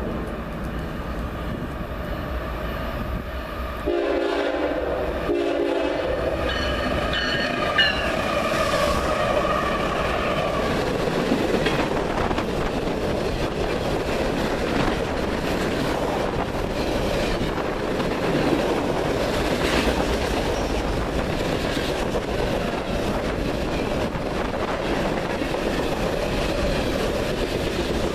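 CSX freight train passing close by. The lead diesel locomotive's horn sounds two short blasts about four seconds in as the engines approach and pass. A long string of refrigerated boxcars then rolls by with steady wheel and rail noise.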